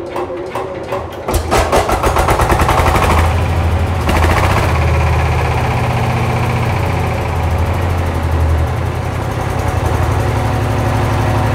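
Sifang 20 hp single-cylinder diesel engine being turned over, catching about a second in and settling into steady running, a heavy sound.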